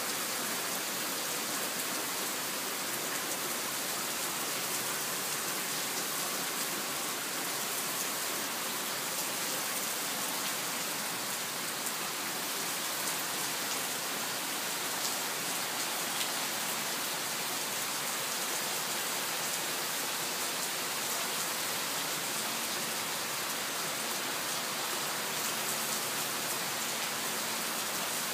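Heavy rain falling steadily on a waterlogged lawn and patio: a dense, even hiss of rain that holds at the same level throughout.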